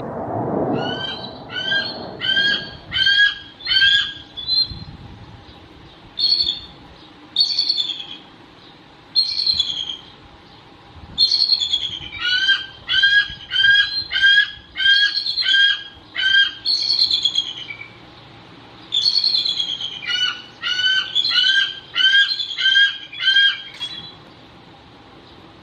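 Steller's jay giving harsh, repeated calls in runs of several, about two a second, with short pauses between runs. A brief low rumble sounds at the start.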